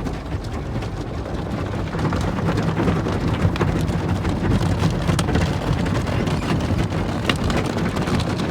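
Automatic car wash working over the car, heard from inside the cabin: water spraying and drumming on the body and windows over a low rumble of machinery. It is a dense, steady noise with scattered sharp knocks.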